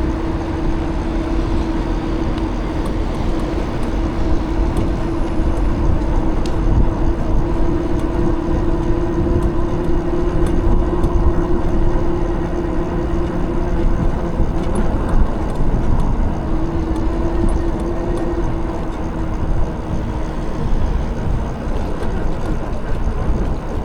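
E-bike riding noise: wind buffeting the microphone and tyre rumble on the road, with a steady low hum that drops out a little past halfway, comes back for a few seconds and then fades.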